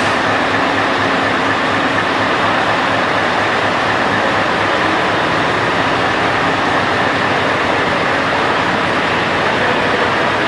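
Heavy trucks driving past, a steady mix of diesel engine and road noise.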